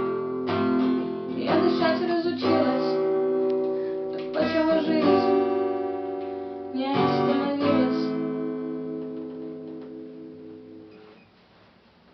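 Guitar chords strummed in short groups, each chord left to ring on. The last chord dies away about eleven seconds in, closing the piece.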